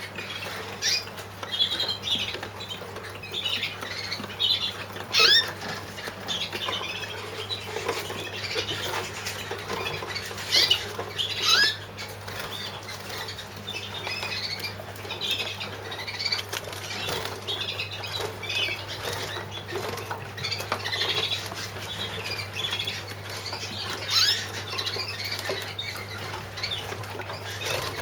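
Young yellow-mosaic canaries in show cages chirping and calling continuously, with wing flutters and rustling against the cages, and a few louder knocks. A steady low hum runs underneath.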